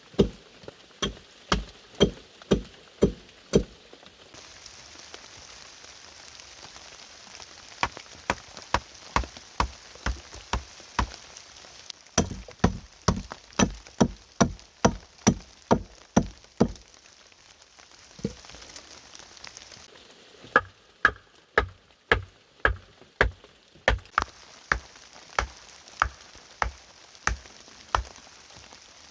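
Steady hiss of heavy rain under runs of sharp, even knocks at about two a second, which stop and start again several times.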